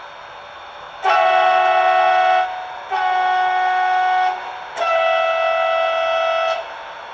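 Sound decoder of a Roco model of the ÖBB 1116 Taurus electric locomotive sounding its horn three times, each blast about a second and a half long. A steady hiss runs underneath.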